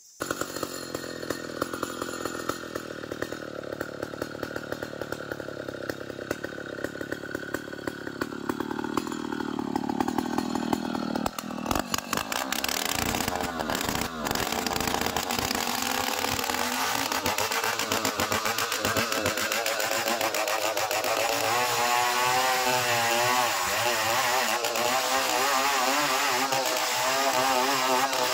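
Band sawmill cutting a long ironwood log. The saw noise starts suddenly, changes character about 12 seconds in, and grows a little louder, with a wavering pitch toward the end.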